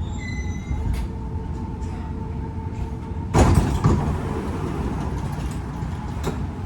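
Dubai Metro carriage with a steady low rumble, and a loud sudden rush about three and a half seconds in as the train's sliding doors open at the station.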